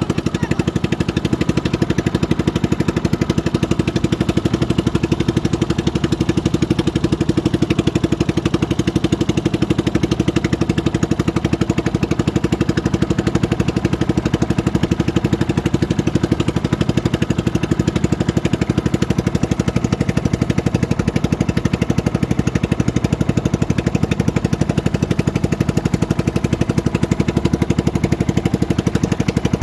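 Motorboat engine running steadily at an even speed, with a fast, regular firing pulse.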